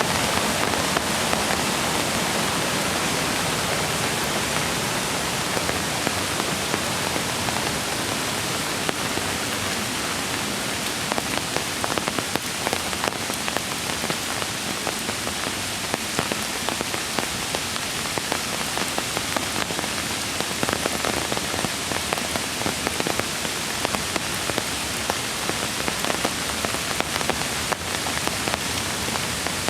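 Rain falling, with many sharp separate drop hits that become more frequent after about ten seconds. Under it runs the steady rush of a mountain creek.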